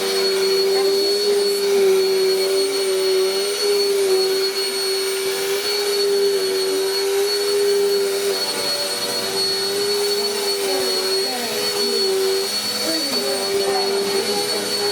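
Household vacuum cleaner running steadily: a motor hum with a high whine and rushing air, its pitch wavering slightly.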